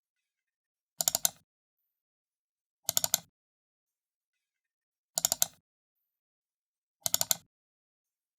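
Computer mouse button double-clicked four times, about two seconds apart, each double click a quick cluster of sharp press-and-release clicks.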